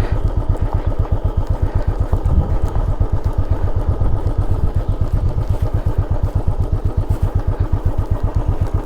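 Motorcycle engine running steadily at low revs, an even pulsing beat of about nine strokes a second, as the bike is ridden slowly down a rough dirt descent.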